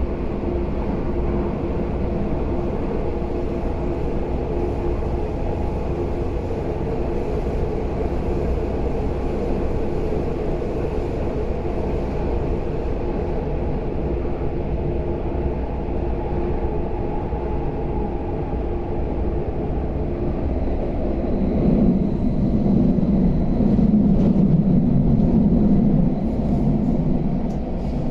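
Cabin noise inside a CAF-built MTR Airport Express train running along the line: a steady rumble with a constant hum. About three-quarters of the way through, the running noise grows louder and deeper for several seconds, then eases.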